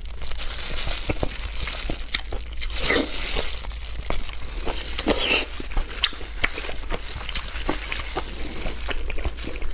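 Close-miked wet chewing and lip-smacking of food in the mouth: a dense run of small moist clicks and smacks, with a couple of short slurping glides.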